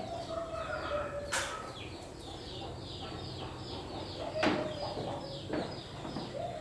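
Chickens: a rapid string of high, falling peeps, about three a second, typical of chicks, over a steady lower tone, with two sharp clicks.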